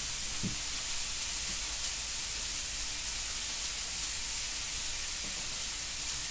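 Steady sizzling hiss of food frying in a pan, with one faint tap about two seconds in.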